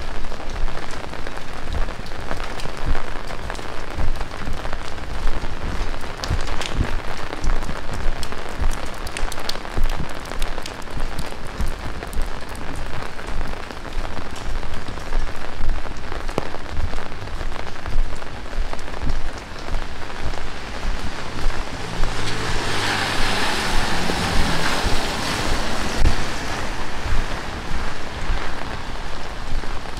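Heavy rain pouring steadily, a dense hiss scattered with sharp ticks of individual drops. About two-thirds of the way through, a louder hiss with a low hum under it swells for a few seconds and fades.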